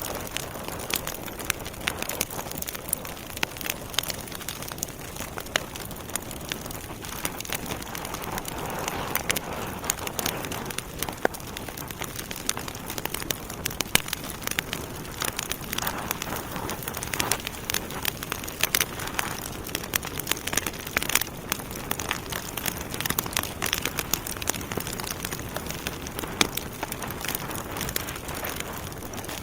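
Wood fire burning in a fireplace: logs crackling with frequent sharp, irregular pops over a steady hiss of flame.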